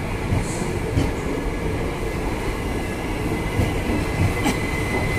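Indian Railways passenger coaches rolling slowly past as the train departs: a steady rumble of wheels on rail with scattered knocks. A faint, thin, high steady squeal comes in near the end.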